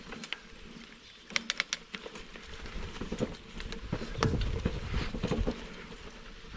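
Bicycle rolling over a rough trail: a quick run of sharp clicks and rattles, then wind buffeting the microphone and tyre rumble from about four seconds in.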